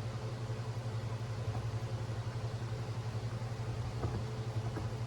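Steady low mechanical hum, with a couple of faint light clicks near the end.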